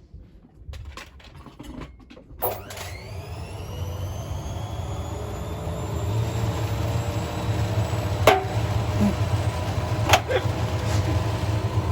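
A machine starting up and running: a few clicks, a sharp knock, then a steady low rumble that slowly grows louder, with two more sharp knocks near the end.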